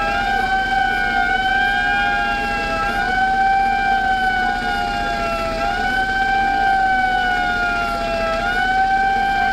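Emergency vehicle siren wailing, its pitch dipping and sweeping back up about every three seconds.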